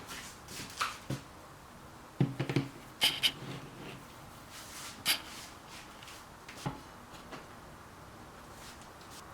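Scattered small clicks and taps of art supplies being handled and set down on a work table, several in quick succession a couple of seconds in, then a few single ones.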